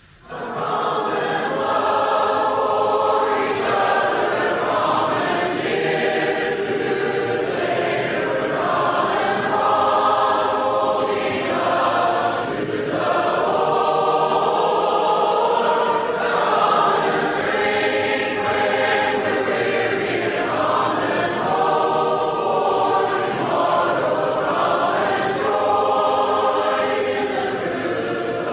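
Congregation singing a hymn together a cappella, many voices with no instruments, starting abruptly after silence.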